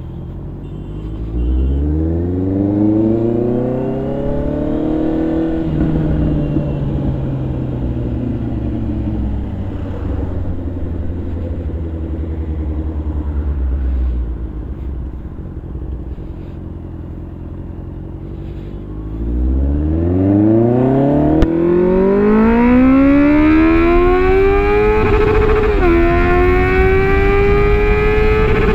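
Superbike engine accelerating hard twice. The first climb in pitch levels off and holds while cruising. The second, louder climb comes about twenty seconds in and is cut by two quick upshifts near the end, each dropping the pitch before it rises again.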